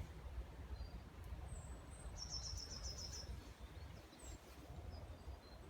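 Quiet outdoor ambience: a steady low rumble with faint small birds chirping, including a short rapid trill about two seconds in.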